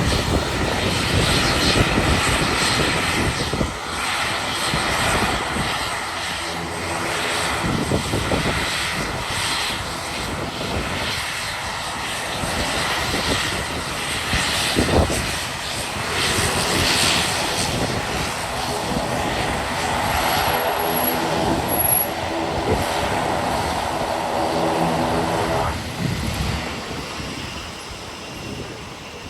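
ATR 72-600 twin turboprop engines running, a loud propeller drone with humming tones that come and go, strongest about two-thirds in before the sound drops off near the end.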